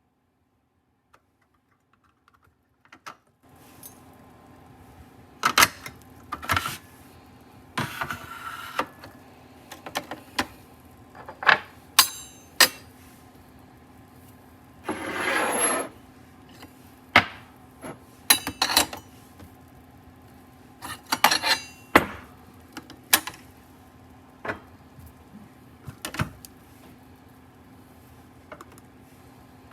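Scattered sharp clicks, knocks and clatters of hard objects being handled, with a rushing scrape lasting about a second roughly halfway through, over a faint steady hum.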